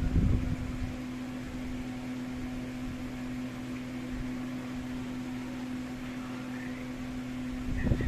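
Steady low electrical hum, with low rumbling bumps in the first second and again near the end.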